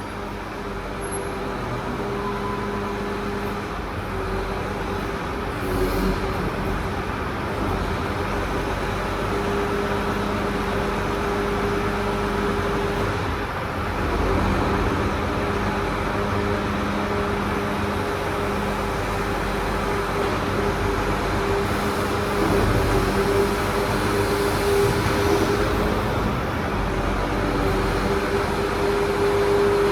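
Crane truck's engine running steadily with a hum from its hydraulics that shifts slightly and breaks off now and then as the grapple is worked.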